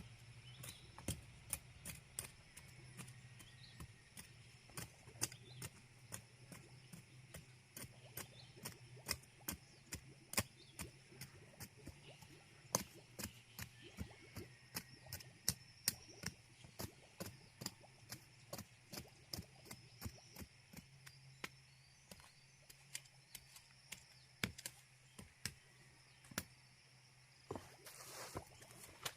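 Sharp clicks or knocks, like a hand tool striking, repeating irregularly about twice a second, over a faint low hum.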